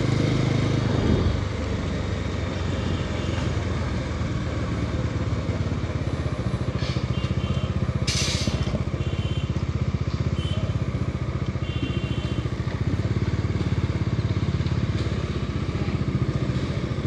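Bajaj Dominar 250 motorcycle's single-cylinder engine running steadily, with a brief hiss about eight seconds in.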